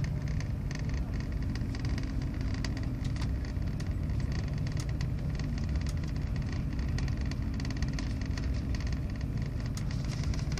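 Steady running noise of a moving passenger train heard inside the carriage: a low rumble of wheels on rails with a faint hum and light ticks and rattles.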